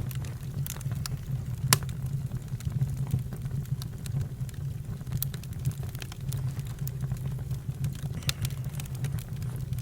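Campfire crackling: irregular sharp pops and snaps over a steady low rumble of burning, with one louder pop about two seconds in.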